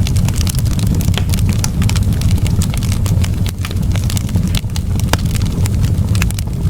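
Wood fire in a fireplace crackling: many sharp pops and snaps scattered irregularly over a steady low rumble of the burning fire.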